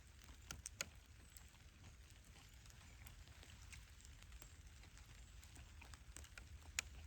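Faint campfire crackling: scattered small snaps and pops over a low steady rumble, with a few sharper cracks about half a second in, again just after, and near the end.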